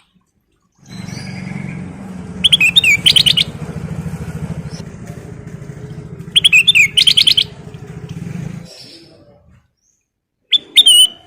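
Kutilang emas bulbul singing vigorously in three bursts of rapid, whistled trilling notes, about two seconds in, about six and a half seconds in, and near the end. Under the first two bursts runs a low steady motor drone, which stops about nine seconds in.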